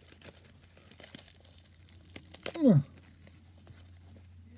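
Packaging crinkling and rustling as a mail package is unwrapped by hand, with small scattered clicks and crackles, and a short vocal sound with falling pitch about two and a half seconds in.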